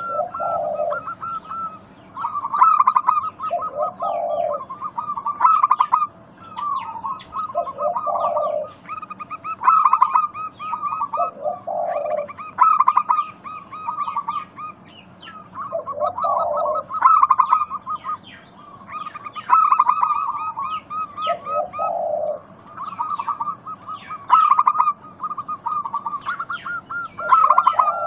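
Zebra doves (perkutut) cooing, a low phrase repeating roughly every four seconds, over steady higher-pitched chirping and trilling from other birds.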